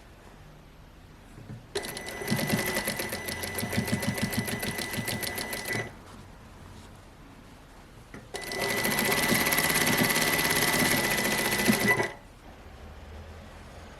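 Sewing machine stitching in two runs of about four seconds each, with a pause between. A steady high motor whine runs under the rapid clatter of the needle, and the second run is louder and steadier than the first.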